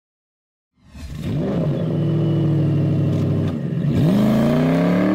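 Silence, then about a second in a car engine comes in at a steady note. Near the middle its pitch drops and dips, and then it accelerates with a steadily rising pitch.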